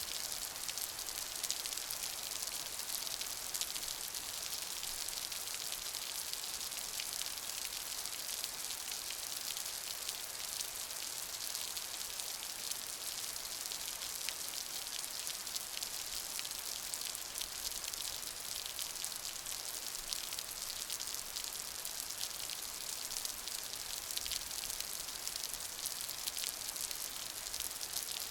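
Steady rain pattering on a surface: a dense, even hiss of countless small drops that stays level throughout.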